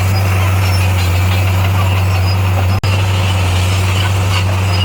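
Heavy diesel engine running steadily with a constant low hum, broken by a split-second gap about three seconds in.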